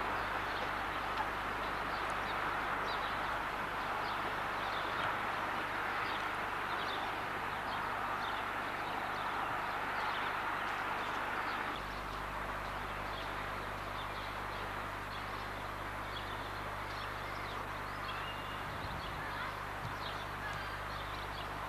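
Small birds chirping in many short calls over a steady outdoor hiss and a low, steady hum.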